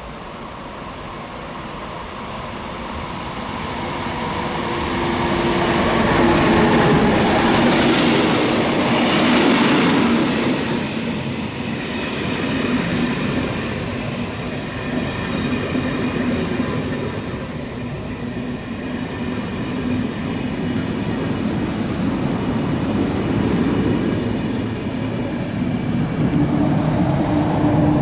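A train drawing close on the rails, getting louder over the first several seconds and then rumbling steadily past, with wheels squealing on the rails at times.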